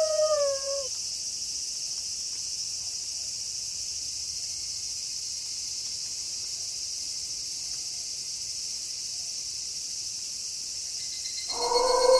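Steady high-pitched night insect chorus, like crickets. A wolf howl drops in pitch and dies away in the first second, and another wolf howl starts, held on one pitch, near the end.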